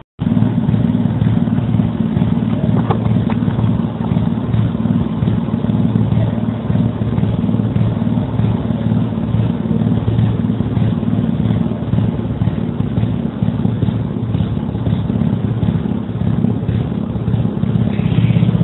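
A small engine running steadily with an even, rapid firing pulse.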